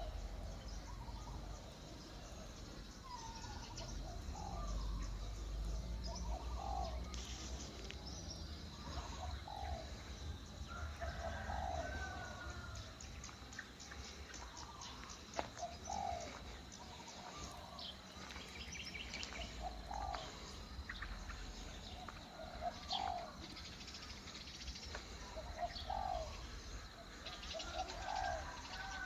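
Birds calling: short, low notes repeated every two seconds or so, with faint quick chirping and ticking in between.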